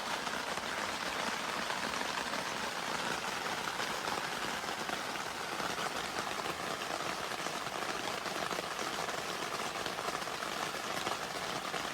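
Heavy, torrential rain falling steadily, heard from inside a tent as an even wash of drops on the fabric.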